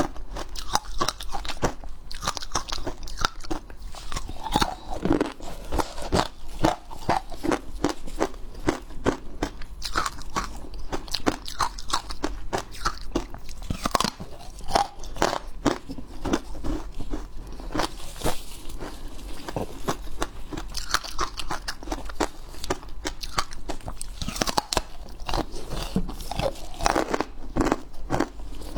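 Hard ice being bitten and chewed close to the microphone: dense, irregular crunching and cracking, several crunches a second.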